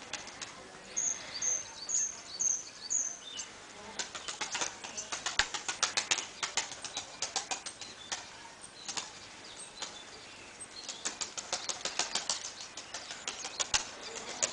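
Takla tumbler pigeons' wings flapping and clapping, in rapid runs of sharp claps, with two long bursts of many claps each.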